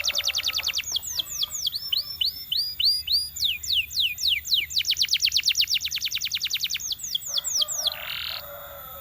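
Canary singing: a fast trill of rapid repeated notes, then a run of quick whistled notes each falling in pitch, another long fast trill about halfway through, and more falling notes. A short rougher, lower phrase comes near the end, where the song grows quieter.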